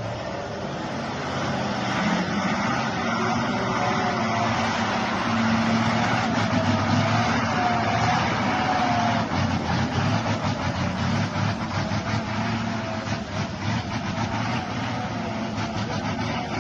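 Heavy vehicle running on the road: a steady low engine hum under road noise, with irregular rattling knocks in the second half.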